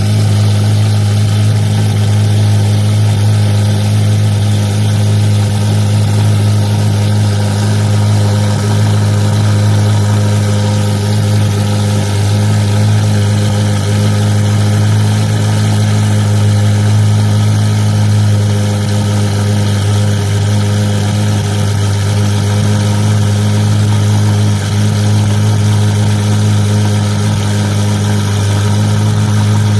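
Ferrari 488 Pista's twin-turbo V8 idling steadily through a Novitec aftermarket exhaust, an even, loud drone with no revving.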